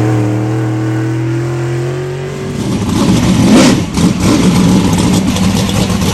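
Car engine running loudly. Its pitch drifts slowly upward for the first two and a half seconds, then it turns rough and uneven, with a sharp rev surge about three and a half seconds in.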